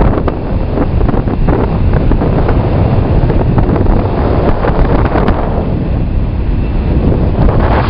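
Jet blast from an aircraft's engines at take-off power battering the microphone: a loud, steady rush of wind noise and rumble.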